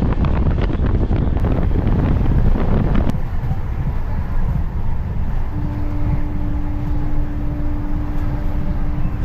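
Express train running, with wind buffeting the microphone over the rumble and rapid clatter of the coach. About three seconds in, the sound changes abruptly to a lower, steadier rumble, and a steady hum comes in about halfway through.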